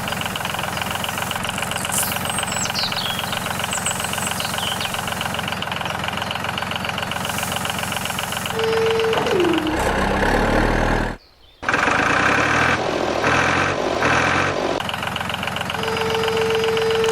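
Steady engine-like running of a mini tractor, with a short held tone that drops in pitch about nine seconds in and another near the end. The running sound cuts out for about half a second about eleven seconds in, then comes back choppier.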